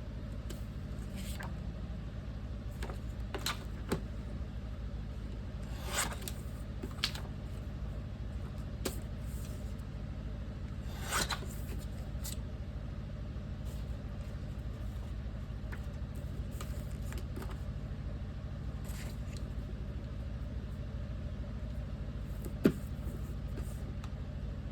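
Photo prints and paper being handled and sorted: scattered short rustles, slides and light clicks, with one sharp click near the end, over a steady low hum.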